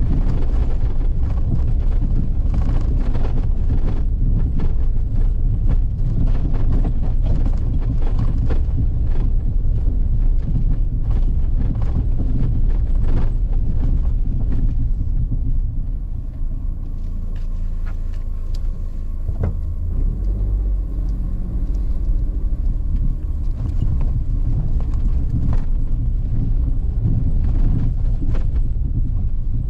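A vehicle travelling along a rough forest road: a steady low rumble with frequent short knocks and rattles, which ease off for several seconds past the middle.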